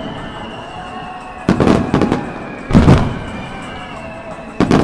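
Aerial firework shells bursting in three loud volleys: about a second and a half in, near three seconds, and just before the end. Each volley is a cluster of sharp bangs that trails off over about a second.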